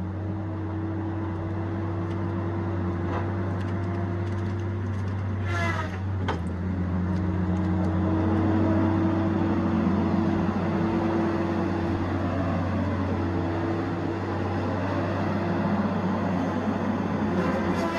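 Tigercat 870C feller buncher's diesel engine and hydraulics running steadily under work, growing somewhat louder about eight seconds in. A single sharp knock sounds about six seconds in.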